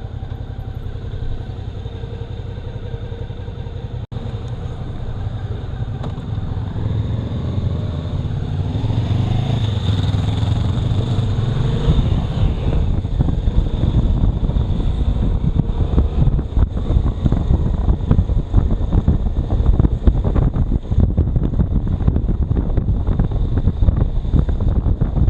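Motorcycle engine running while being ridden. From about halfway on, a louder, rougher low rumble builds under it, typical of wind buffeting on a helmet or bike-mounted microphone.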